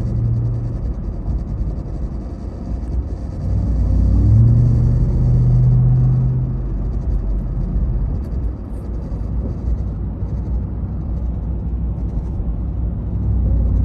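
Ram TRX pickup under way: a low drone over road rumble, with a low tone that rises about four seconds in, holds for a couple of seconds, then fades. This is the strange vibrating noise the truck makes when taking off, which the owner thinks comes from the dash but could be from the engine bay.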